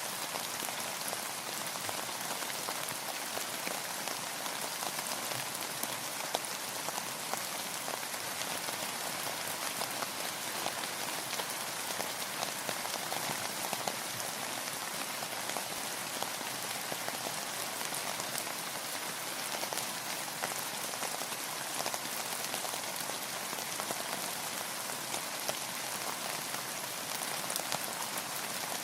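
Steady rain falling, an even hiss dotted with many individual drop patters.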